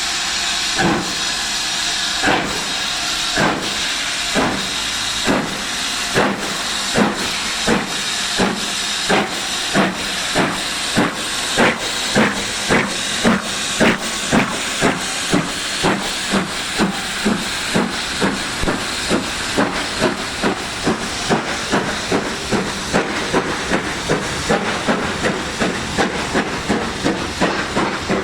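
Steam locomotive 70013 Oliver Cromwell, a BR Standard Class 7 'Britannia' 4-6-2, pulling away and accelerating. Its exhaust beats quicken steadily from about one a second to about two a second over a continuous hiss of steam, growing louder to about the middle and then easing off slightly as it draws away.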